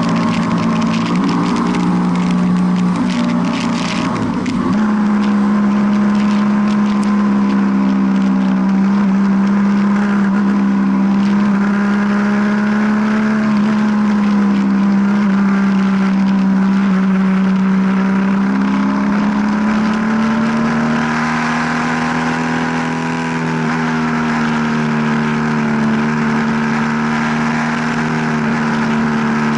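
Vehicle engine running steadily while driving at a roughly constant speed, with road noise; the engine note shifts about four seconds in and rises slightly about twenty seconds in.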